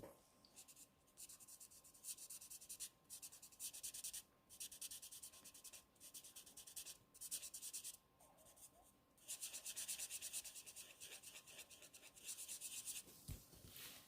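Faint scratching of a marker tip on cardstock in quick, repeated short strokes as a flower petal is coloured in. The strokes come in runs of one to three seconds with short pauses between them.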